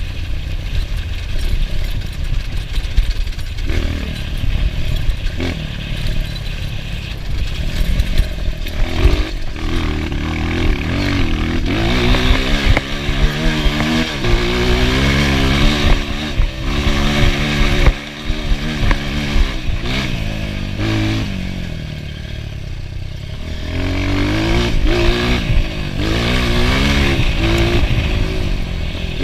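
Enduro motorcycle engine being ridden hard, its revs climbing and dropping again and again, over a heavy low rumble. The engine eases off briefly about two-thirds of the way through, then picks up again.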